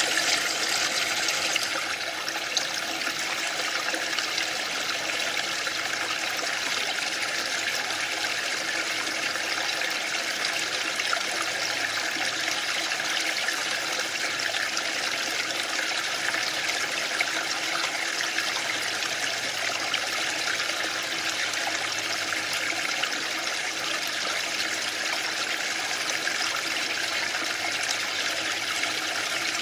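Waterfall: a steady, even rush of falling water with no swells or breaks, slightly brighter in the first two seconds.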